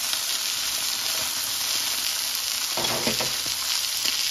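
Boiled chicken pieces and sliced onions sizzling steadily in hot oil in a nonstick frying pan. A brief scrape of tongs comes about three seconds in as the pieces are turned.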